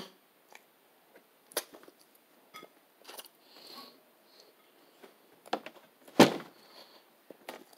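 Close-up eating sounds: a bite and chewing, with scattered small mouth clicks. One sharp thump about six seconds in is the loudest sound.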